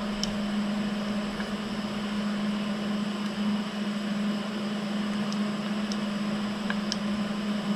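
A steady background machine hum at one low pitch with a hiss over it, and a few faint light ticks.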